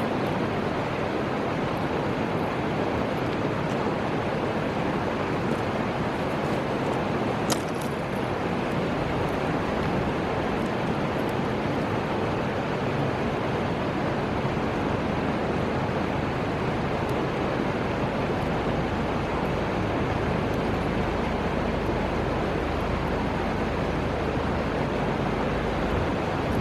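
Steady rushing of the Fuji River's flowing water, an even unbroken noise, with one brief sharp click about seven and a half seconds in.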